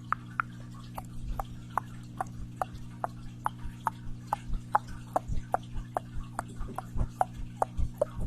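Close-miked ASMR clicking: a steady series of light, short clicks, about two or three a second, over a low steady hum.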